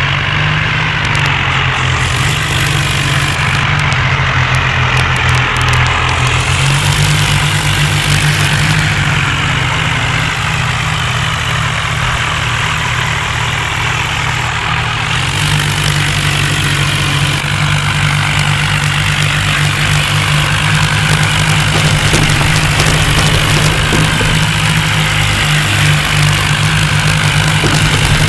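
John Deere tractor's diesel engine running steadily, its note stepping up slightly about six seconds in and again about fifteen seconds in.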